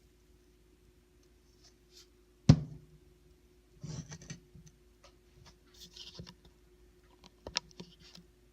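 Metal lightsaber replica parts being handled on a work surface: a sharp knock about two and a half seconds in, rustling and scraping a little later, and another sharp knock near the end.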